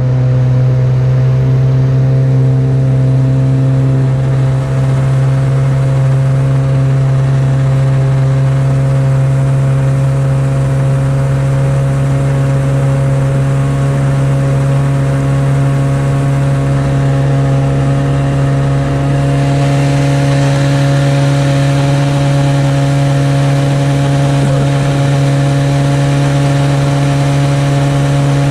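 An engine running steadily at constant speed, a loud unchanging hum with a strong low tone.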